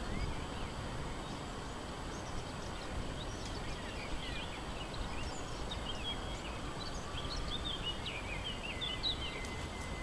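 Small birds chirping in quick, short calls over a steady low background rumble of outdoor noise, the chirping busiest in the second half.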